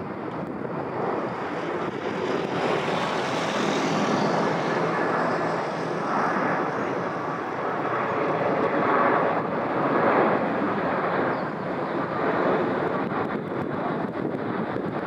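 Boeing 787-8 Dreamliner's jet engines during its landing: a broad, rushing roar that swells a few seconds in, then rises and falls in strength.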